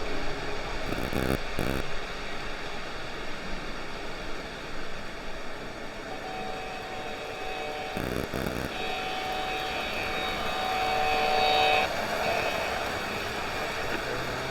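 Model train layouts running amid hall background noise. A steady pitched tone sounds for several seconds in the middle, swells, then cuts off suddenly. Two brief crackles are heard, one near the start and one about halfway through.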